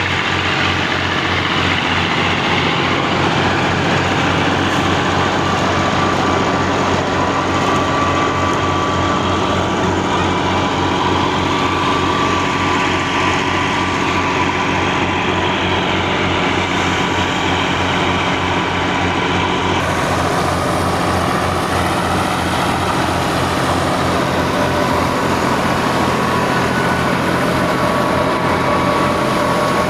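An Al-Ghazi tractor's diesel engine running steadily under load, driving a wheat thresher; the sound changes slightly about two-thirds of the way through.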